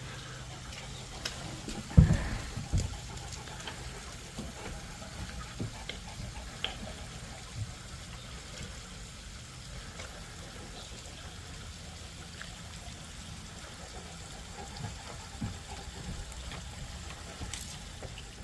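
Steady rain falling, with scattered small ticks and two heavy low thumps about two seconds in.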